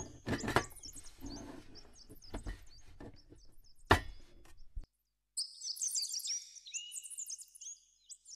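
Rustling of a plastic bag and things being handled in a metal trunk, with a sharp knock about four seconds in. The sound then cuts out, and small birds chirp in quick, high, falling notes.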